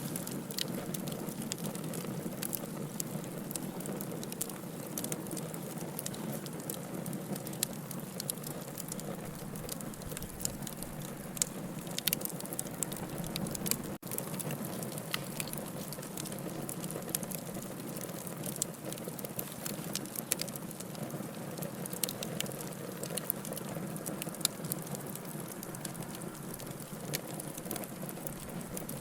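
Wood fire burning in a fireplace: a steady low rush of flames with frequent, irregular sharp crackles and pops from the burning wood.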